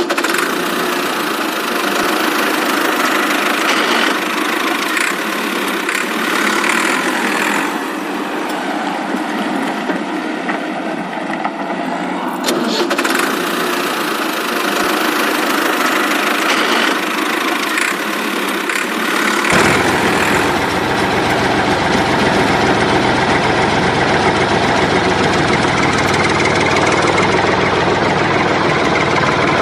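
Engine, apparently a tractor's, running steadily with a knocking, idling character. About twenty seconds in the sound changes abruptly and a deep low rumble joins it.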